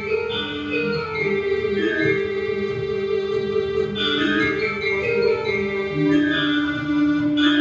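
Javanese gamelan music playing, with a steady held tone underneath and gliding melodic lines above it.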